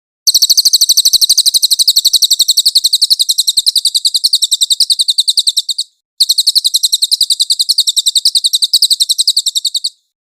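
Cililin bird singing two long, very high trills of rapidly repeated notes, about ten a second. The first trill lasts about five and a half seconds; after a brief break the second runs about four seconds.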